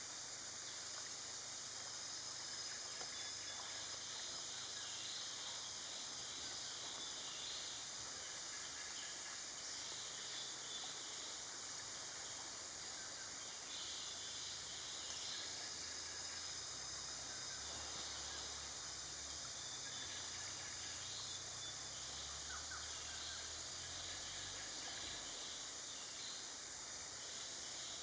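Forest ambience: a steady high-pitched insect drone, with short scattered bird chirps now and then.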